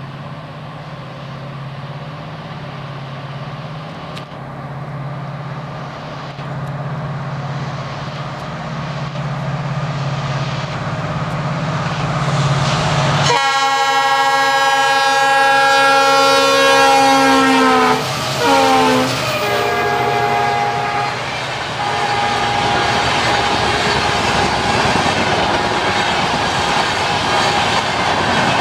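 A train of twin WDP-4D diesel locomotives approaches at speed. A low steady rumble grows louder for about thirteen seconds, then the locomotive's multi-tone horn sounds a long blast whose pitch drops as it passes, followed by two shorter blasts. The coaches then rush past with a steady roar and a clickety-clack of wheels.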